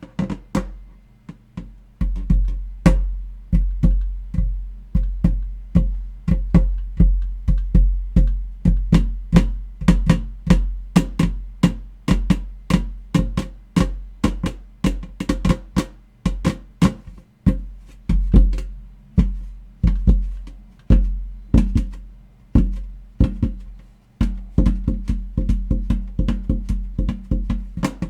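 Fast tapping on a hollow, resonant object for ASMR, a few taps a second, each tap with a deep boom and a short pitched ring. The tapping starts about half a second in, settles into a steady run from about two seconds in, and pauses briefly twice.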